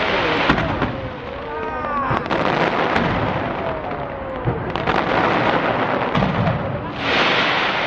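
Fireworks display going off in a dense barrage: continuous crackling and popping with sharp bangs throughout, and a brighter surge of crackle about seven seconds in.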